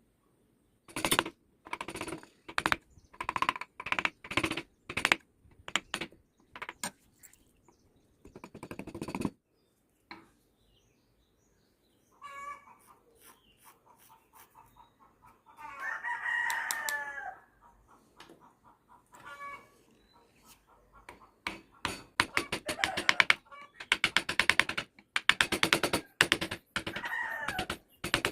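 A rooster crows once, a call of about two seconds some sixteen seconds in. Around it come bursts of short, sharp scraping strokes, typical of a blade cutting wood by hand.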